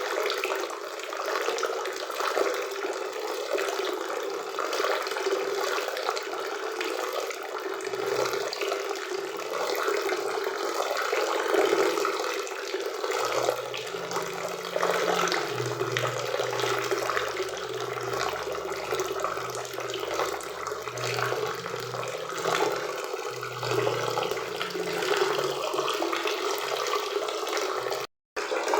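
Waterfall and river water rushing steadily, cutting out for a moment near the end.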